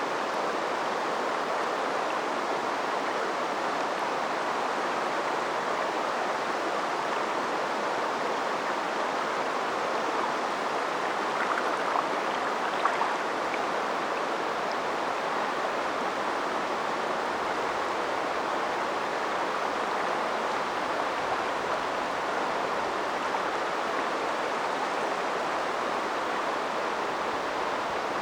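River water flowing steadily, an even rushing sound of a stream. A few brief louder ticks come about halfway through.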